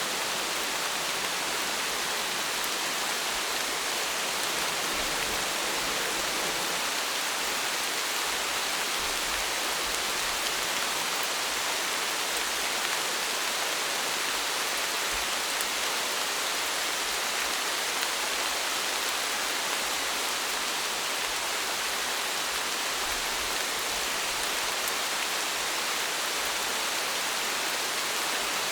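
Steady rain falling, an even hiss of many drops with no pauses or changes in strength.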